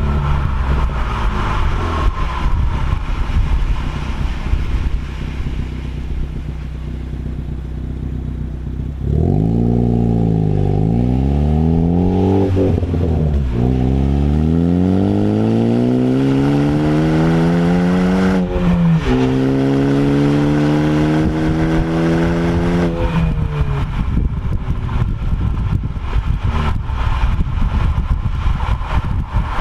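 Ford Focus ST's turbocharged four-cylinder running through an MBRP aftermarket exhaust: a steady note at first, then about nine seconds in the car accelerates hard, the pitch climbing and dropping sharply at two gear changes, before easing off to a steady lower note after about 23 seconds.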